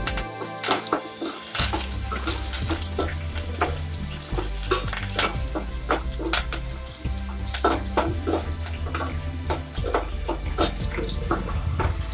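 Chopped onions, green chillies and curry leaves sizzling in hot oil in a stainless-steel pan while a metal spoon stirs them, clicking and scraping against the pan many times.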